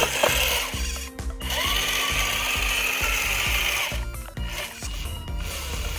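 Small DC motor of a homemade RC Swaraj 4x4 tractor running with a high whine. It breaks off briefly about a second in, spins up again with a rising pitch that levels off, and cuts out near four seconds.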